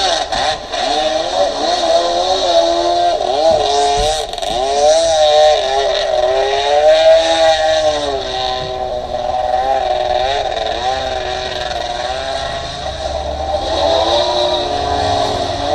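Jet ski engine running hard, its pitch rising and falling over and over as the throttle and load change.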